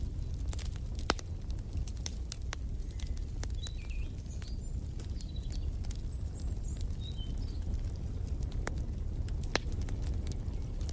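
Wood fire crackling in a fireplace: irregular sharp pops and snaps over a steady low rumble, with a few faint, high bird chirps in the middle.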